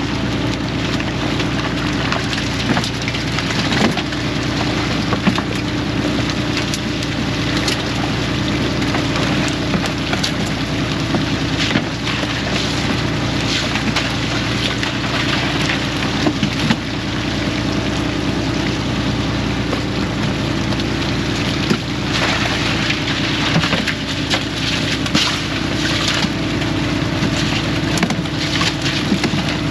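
Fishing boat's engine running steadily under a loud wash of water and wind noise, with scattered knocks.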